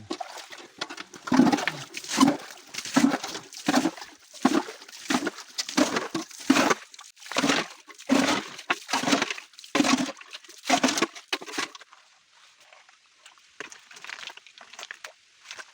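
Rhythmic splashing in shallow stream water, about one splash every 0.8 s for some ten seconds, then stopping, with fainter sloshes near the end.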